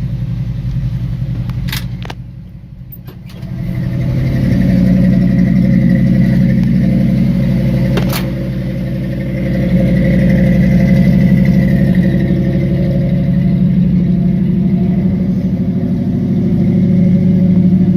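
Carbureted engine of a 1974 Ford F100 pickup running steadily just after a cold start. It drops quieter for about two seconds near the start, then comes back louder, with a few sharp clicks.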